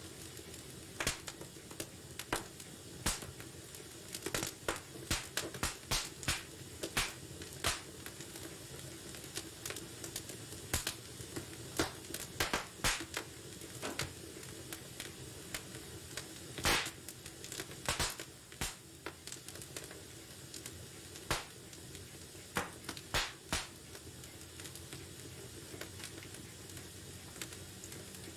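Wood fire burning in a fireplace: irregular sharp crackles and pops over a soft steady rush, with one louder pop past the middle.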